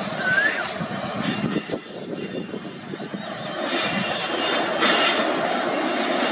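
WAP-7 electric locomotive hauling a passenger train running past, a steady rumble of wheels on the rails. The clatter grows louder twice, a bit past the middle.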